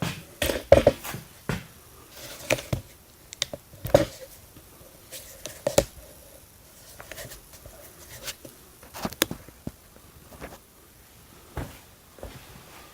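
Irregular knocks, taps and clatter of hands and tools working on a wooden frame with roofing panels, a dozen or so sharp hits spread unevenly.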